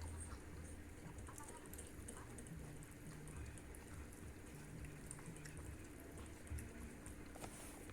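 Faint rainwater dripping after a shower, scattered small ticks over a low steady hum.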